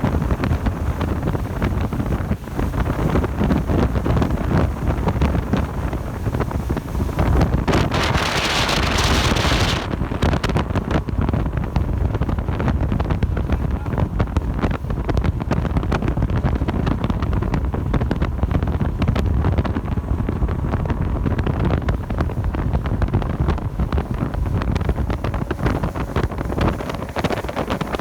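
Strong wind buffeting the microphone in a storm: a continuous low rumble with irregular gusty knocks, and a louder hiss lasting about two seconds, around eight seconds in.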